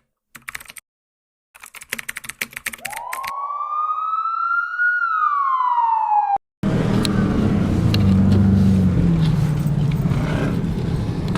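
A quick run of clicking ticks, then a single siren wail that rises and falls over about three seconds and cuts off abruptly. From about halfway in, car engines rumble steadily with wind on the microphone.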